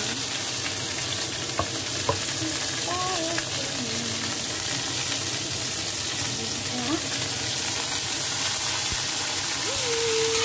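Bean sprouts sizzling in a hot wok as they are stirred and tossed with a spatula.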